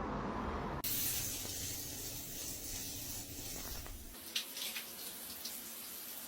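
Shower water spraying, a steady hiss that changes abruptly a little under a second in, with a few short clicks about four seconds in.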